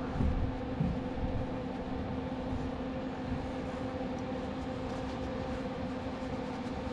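Welding machine switched on and running with a steady, even hum, ready for welding.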